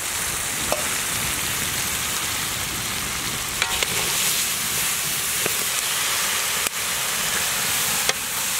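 Crabs frying in masala in a large wok over a wood fire: a steady sizzle, with a few sharp clicks scattered through it.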